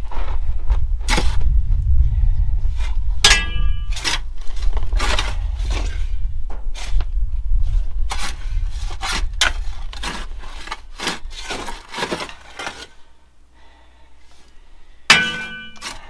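Steel shovels scraping and chopping into dirt in a steady run of strokes, with a ringing metal clang about three seconds in and a louder one near the end as one shovel blade strikes another.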